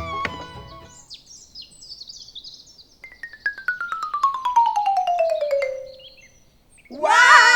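Dubbed-in comic sound effects. High twittering blips come first. Then a falling tone slides down over about three seconds with rapid xylophone-like ticks, and near the end a loud, buzzy, wavering tone starts.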